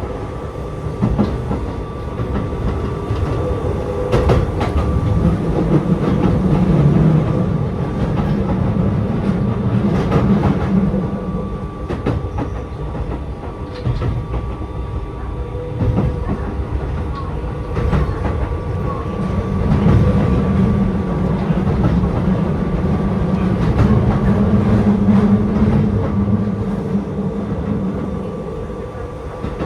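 Keio 7000 series electric train running along the line: a steady rumble with a faint constant whine, and wheels clicking now and then over rail joints.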